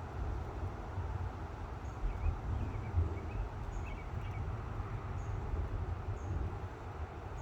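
Steady low outdoor rumble, with a few faint high bird chirps about two to four seconds in.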